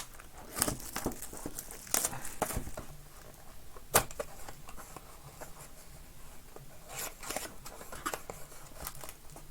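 Cardboard trading-card inner box being torn open and its foil packs handled, in scattered short rips and rustles, with one sharp snap about four seconds in.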